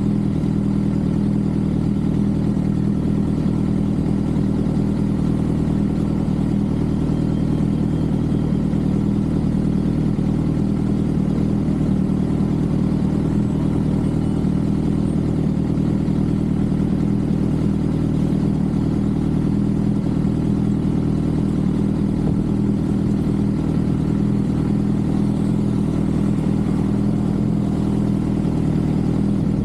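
Sport motorcycle engine running at a steady, unchanging pitch, heard from the rider's camera.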